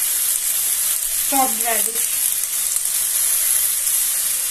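Onion, peas and carrots sizzling in hot mustard oil in a kadhai: a steady frying hiss, with a brief voice about a second and a half in.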